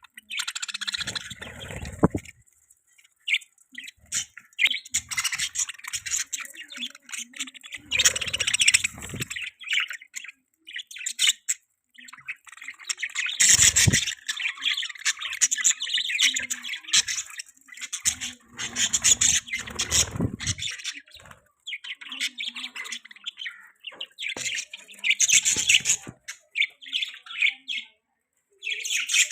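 Budgerigars chirping and chattering in quick, busy bouts with short pauses between them, with a few low thumps or rustles mixed in.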